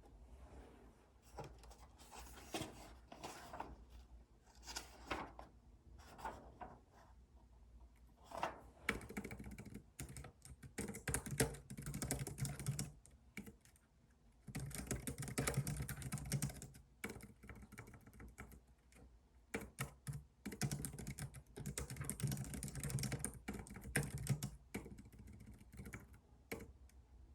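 Typing on a computer keyboard: a few scattered keystrokes at first, then fast runs of typing lasting a few seconds each, with short pauses between them.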